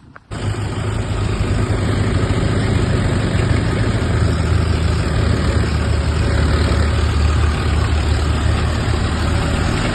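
Tractor engine running steadily at a low, even speed; it cuts in suddenly just after the start and holds.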